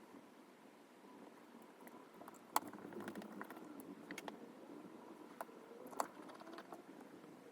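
Faint handling noise of small tools and iPhone 5s parts on a work surface, with a few sharp little clicks and taps, the loudest about two and a half seconds in and another about six seconds in.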